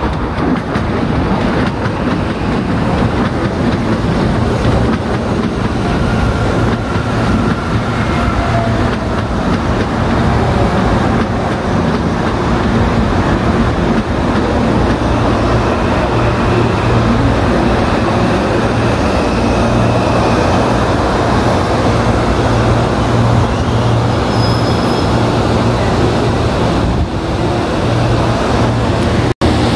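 Electric commuter train running into the station platform and slowing to a stop. It is a steady loud rumble of wheels and traction equipment with a low hum, and faint thin squeals come in now and then as it brakes.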